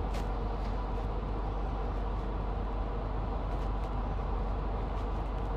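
Steady low rumble of a running vehicle, even throughout with a faint hum over it.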